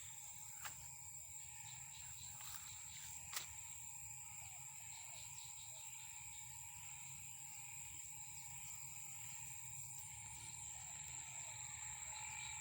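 Faint outdoor ambience: a steady high-pitched insect drone over a low rumble, with one sharp click about three and a half seconds in.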